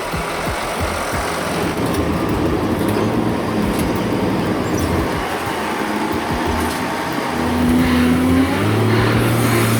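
A heavy truck's engine running under road and wind noise, its low engine note coming and going and growing stronger about eight seconds in.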